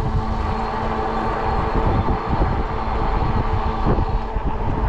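Wind buffeting the microphone and the rumble of an e-bike's fat tyres on pavement while riding, with a faint steady whine under it.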